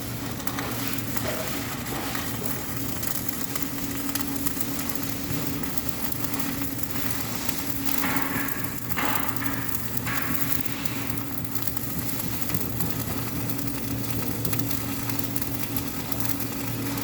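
Electric arc welding: the arc crackling and sizzling steadily as a bead is laid, over a steady low hum.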